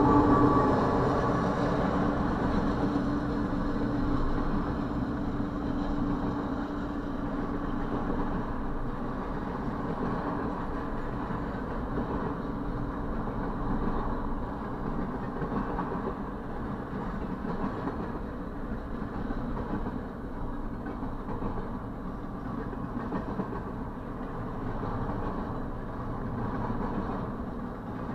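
Double-stack intermodal freight train rolling past close by: a steady rumble and clatter of the well cars' wheels on the rails. It is a little louder in the first couple of seconds.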